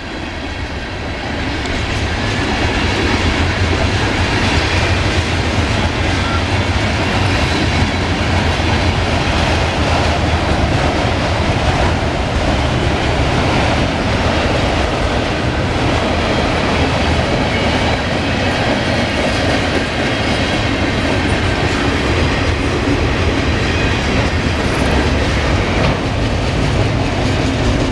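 Norfolk Southern mixed freight train's cars rolling past at close range: a steady, loud rumble and clatter of steel wheels on the rails. It builds over the first few seconds, then holds even.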